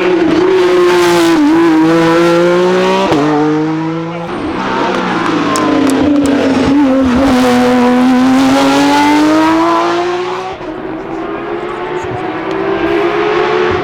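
Hill-climb race car engine at high revs, with a sharp gear change about three seconds in and the revs climbing again. Near the end the sound drops in level and grows duller as the car pulls away.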